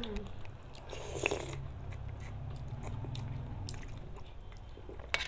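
Close-up mukbang eating sounds: mouths chewing and smacking on instant noodles and roast chicken, with scattered small clicks and a sharp click near the end, over a steady low hum.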